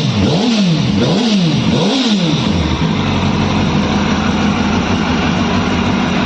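Yamaha R1 inline-four motorcycle engine blipped three times in quick succession, each rev rising and falling, then settling to a steady idle about three seconds in.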